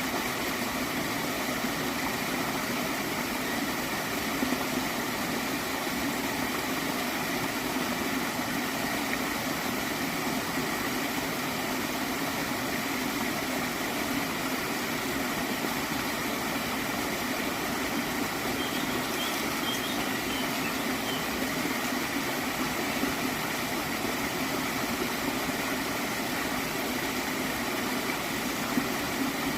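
Water in a stream flowing steadily.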